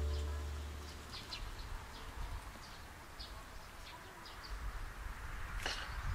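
Background music fading out over the first second, then faint outdoor ambience with small birds chirping in short, high notes and one quick falling call near the end.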